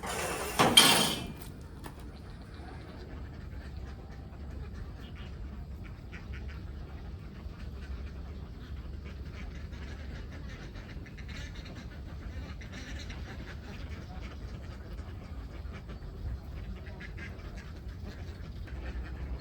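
Ducks quacking faintly and scattered over a steady low rumble, with a loud rushing burst of noise lasting about a second and a half at the start.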